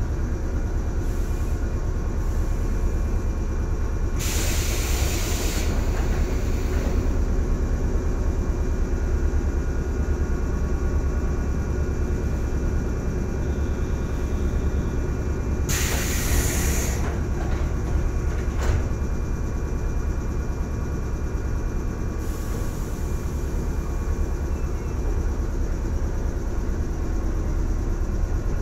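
113 series electric train running, heard from inside the car: a steady low rumble of motors and wheels on rail, with two short hisses about four and sixteen seconds in and a fainter one later.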